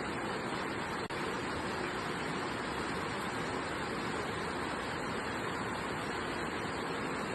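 Steady rain falling, a dense, even hiss of drops that dips out for an instant about a second in.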